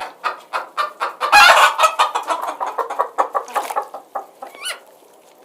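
Chickens clucking: a rapid run of short clucks with a few higher squawks, loudest about a second and a half in and thinning out near the end.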